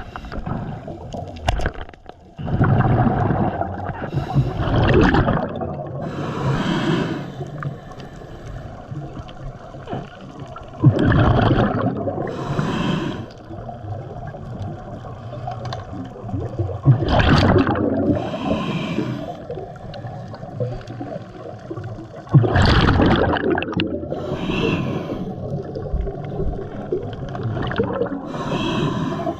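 Scuba diver breathing through a regulator underwater: each short hissing inhale is followed by a loud, gurgling rush of exhaled bubbles, repeating about every five to six seconds.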